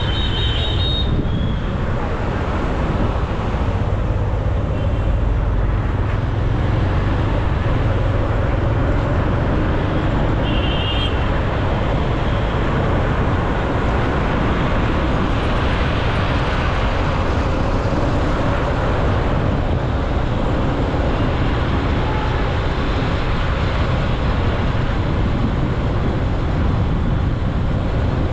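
Steady rush of wind and road noise from a motorcycle riding through city traffic, heavy in the low end. There is a short high-pitched beep about ten seconds in.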